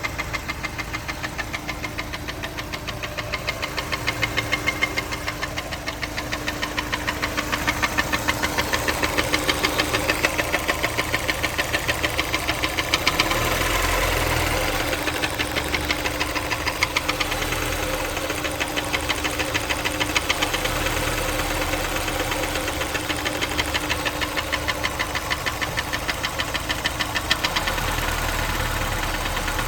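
Honda S2000's four-cylinder engine running with a steady, rhythmic knock repeating several times a second. The knock is typical of the engine knock the uploader suspects.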